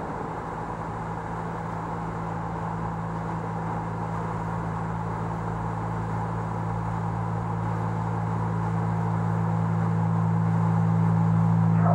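Low electronic drone of two steady held tones that comes in suddenly and swells slowly louder, over a steady rushing hiss like tyre and road noise in a tunnel.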